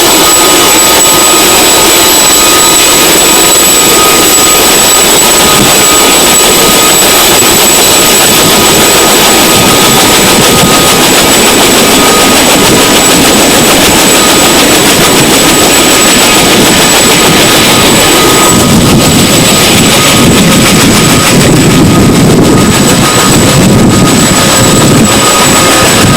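CH-47 Chinook helicopter's twin turbine engines and rotors running: a loud, steady noise with thin, steady high whines over it. About 18 seconds in, the sound turns lower and heavier.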